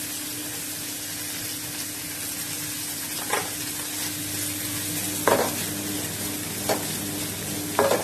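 Sweet corn filling sizzling gently in a buttered pan on low heat while it is stirred, with four short scrapes against the pan as the stirring goes on.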